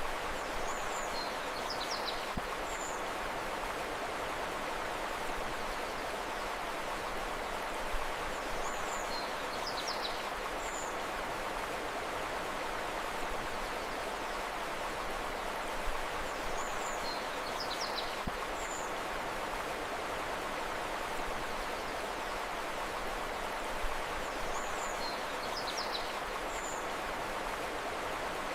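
Steady rushing of a flowing river, with a short cluster of high bird chirps recurring about every eight seconds.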